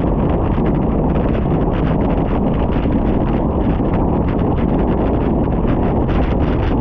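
Wind buffeting the microphone as the bicycle descends at speed: a loud, steady rush, with fine crackle above it that could hold rain and tyre noise.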